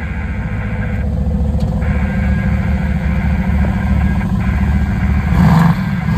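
Car engine running, its rapid low pulsing growing steadily louder as the car approaches, with a louder surge near the end.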